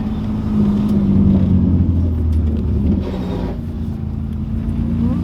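BMW E36 engine running through an aftermarket exhaust with the primary muffler deleted and a Vibrant muffler, a steady low drone. It swells for the first three seconds or so, then eases back to a steady level.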